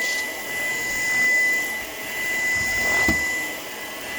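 Shark PowerDetect vacuum cleaner running, a steady airflow hiss with a thin high whine, its level swelling and dipping. A short low thud about three seconds in.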